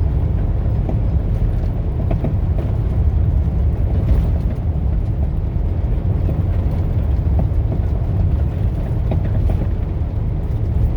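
Steady low rumble of a vehicle moving along the highway: even road and wind noise with no clear engine note, holding level throughout.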